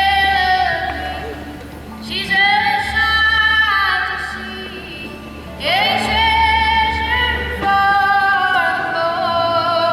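Live band playing a country-folk song with a woman singing lead in long held phrases, one starting about two seconds in and another near six seconds in, over acoustic backing and a steady low bass.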